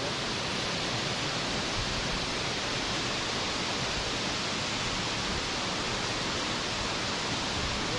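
Water of a forest waterfall rushing steadily, a constant even hiss with no breaks.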